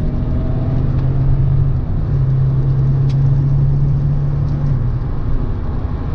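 Nissan 300ZX twin-turbo 3.0-litre V6 on its stock intake, heard from inside the cabin, running steadily at speed on a wet road over steady tyre and rain noise. The engine drone breaks briefly about two seconds in and falls away near the end.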